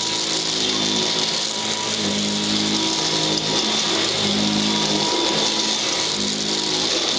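Vintage Royal Model 608 upright vacuum cleaner running steadily, with motor whine and rushing air. Its low hum shifts in pitch about once a second.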